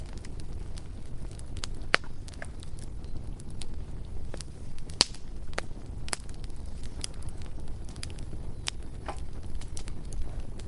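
Bonfire crackling: irregular sharp pops and snaps from burning wood over a low steady rumble.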